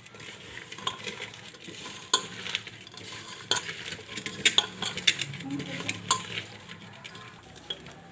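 Sliced onion mixture being mixed and squeezed by hand in a bowl: a rustling, squelching sound with irregular clinks and clicks against the bowl.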